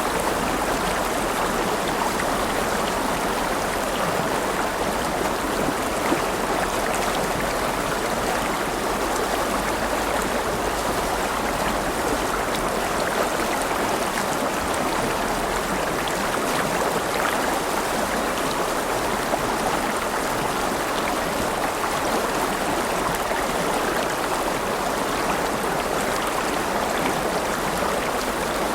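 River water running steadily over stones, a continuous rushing and babbling.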